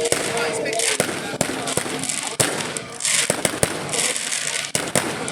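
Fireworks display: a string of irregular sharp bangs from bursting shells, with hissing and crackling between them.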